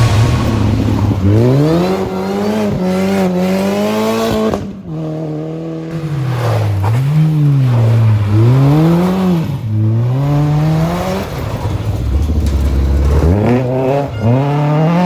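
Rally car engine revved hard on a forest stage, its pitch climbing and dropping over and over as it changes gear and lifts off. The sound drops away abruptly just under five seconds in.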